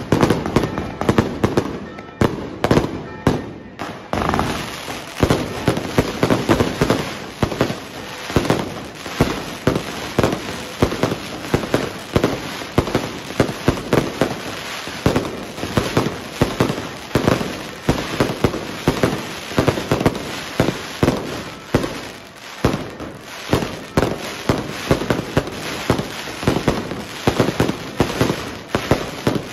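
Fireworks going off in a dense, rapid barrage of bangs, several a second, easing briefly about two to four seconds in.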